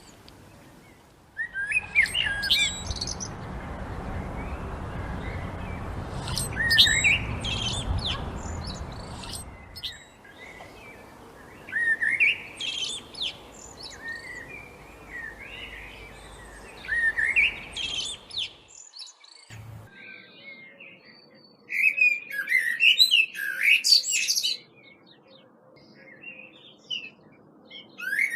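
Songbirds singing: a short phrase that sweeps upward, repeated every four or five seconds, over a low rumble that fades out about ten seconds in. Near the end the background changes abruptly and a busier run of rapid chirps follows.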